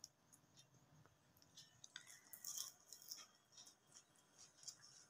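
Faint crunching and chewing of a crispy fried potato snack: a scatter of soft, crisp ticks, busiest about halfway through.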